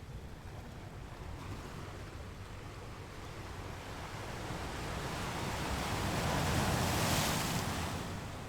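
Ocean waves on a beach: a wave builds over several seconds, breaks into its loudest hiss about seven seconds in, and then falls away.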